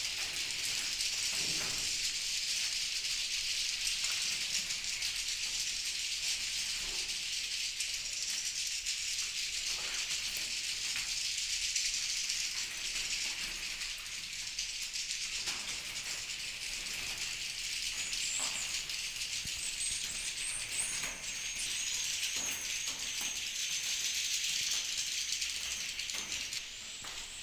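Swiftlets calling in a dense, continuous high-pitched twittering chorus: the swiftlet call sound played to draw swiftlets to a nesting house.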